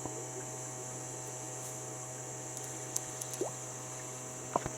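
A steady low electric hum with faint water sounds, a few small clicks about three seconds in and another click near the end.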